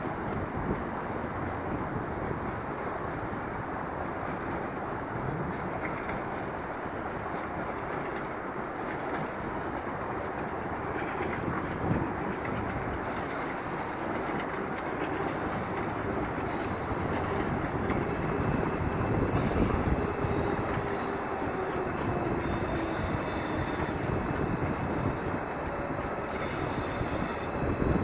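Deutsche Bahn ICE high-speed train rolling through a rail yard: a steady rumble of wheels on track, with high-pitched wheel squeals coming and going over the second half.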